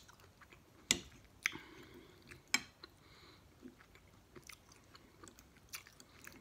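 A person chewing food, with wet mouth clicks and smacks, the sharpest about one, one and a half and two and a half seconds in, then smaller ones.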